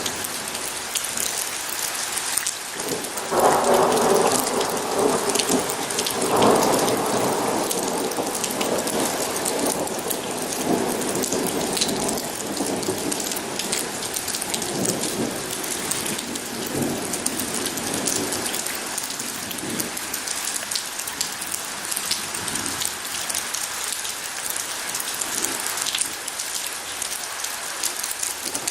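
Steady rain falling, with close drop patter throughout. About three seconds in a roll of thunder breaks in, swells again a few seconds later, and rumbles on in fading waves for over ten seconds.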